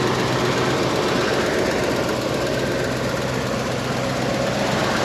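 1970 Ford Mustang's original 302 small-block V8, two-barrel carbureted, idling steadily and quietly.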